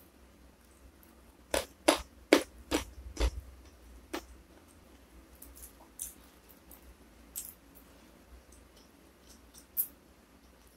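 Close-miked chewing of a mouthful of fried fish and rice: a quick run of about six sharp, wet mouth clicks a couple of seconds in, then only occasional faint ticks.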